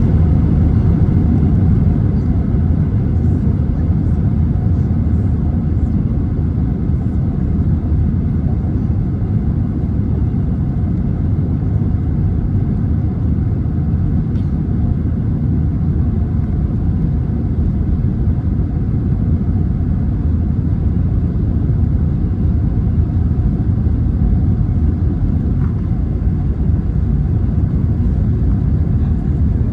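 Steady low rumble of an Airbus A321 cabin in flight, engine and airflow noise holding at a constant level.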